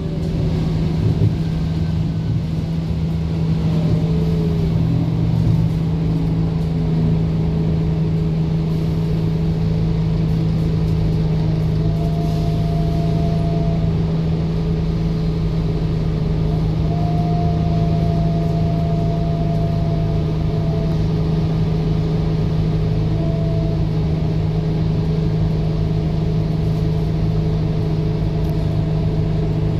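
Scania K230UB city bus running steadily, a continuous engine drone with a fainter whine above it. In the first few seconds the higher tones fall in pitch, then the sound settles, with short higher tones coming and going around the middle.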